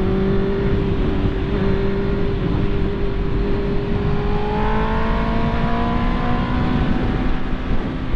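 Honda CB650R's inline-four engine running under way, its note climbing slowly as the bike gathers speed, over a steady rush of wind noise.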